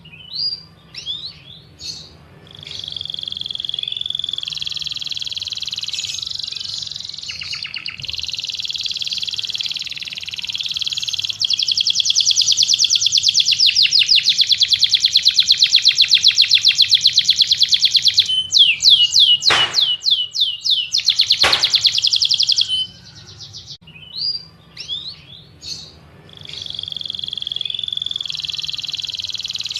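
A songbird singing loudly and continuously in fast, high trills and chirps, with a long rapid trill in the middle. Two sharp falling whistles come about two-thirds of the way through.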